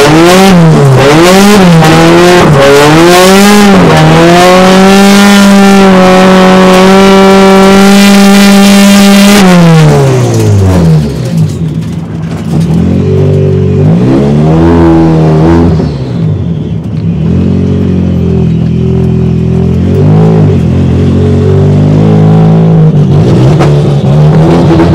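Turbocharged Toyota 3S-GE Beams four-cylinder engine revved up and down several times, then held at high revs for about five seconds before dropping back. Later it runs lower, with a few more short blips of the throttle.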